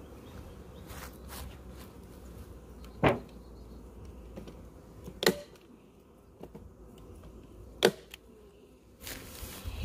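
Three sharp snaps of a staple gun, a couple of seconds apart, fastening a queen excluder over the bee box, with bees buzzing faintly.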